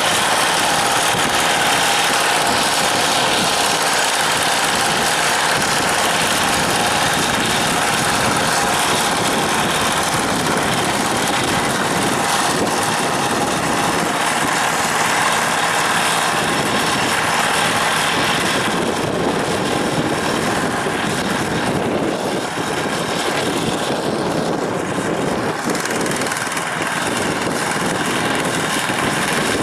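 Tractor diesel engine running steadily under load, with the noise of its ground-working blades. The sound eases slightly about two-thirds of the way through.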